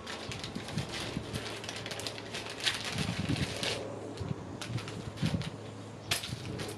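Irregular small clicks, taps and rustles of hardware being handled by hand, over a steady low electrical hum.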